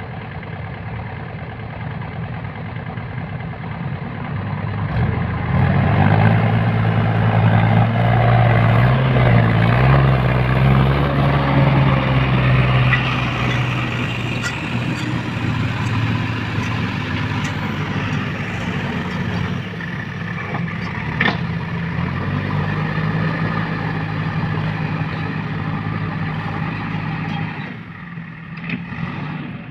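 Heavy diesel engine of machinery at work. It runs steadily, revs up about five seconds in, eases back after about thirteen seconds and picks up again a little after twenty seconds. There is a sharp click a little after twenty-one seconds.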